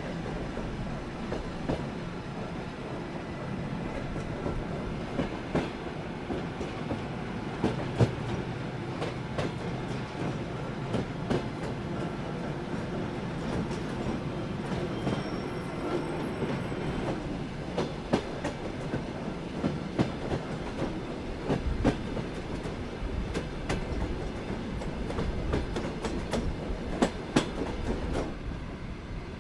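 Soviet sleeper train running along the line: a steady rumble with irregular sharp clicks and knocks of the wheels over rail joints.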